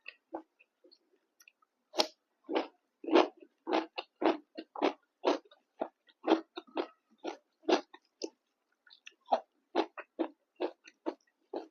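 A person chewing mouthfuls of pork fry with rice and dal, a steady run of chews at about two to three a second that begins about two seconds in.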